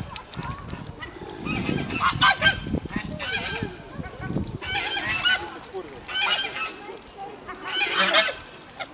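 Geese honking, a burst of loud calls every second or two.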